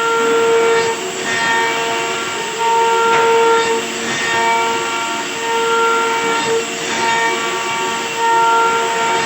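CNC router spindle running at a steady high speed with a constant whine while cutting wood, the whine swelling and easing every second or so as the bit works the stock.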